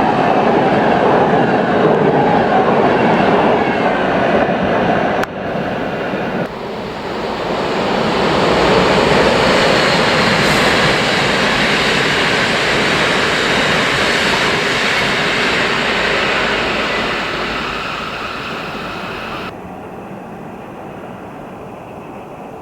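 Train passing at the station: loud, steady wheel-on-rail noise that swells again a few seconds in, then fades. The noise drops off sharply near the end.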